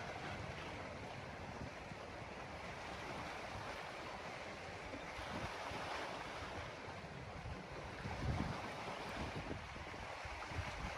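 Wind buffeting the microphone over a steady rushing noise, with a stronger gust about eight seconds in.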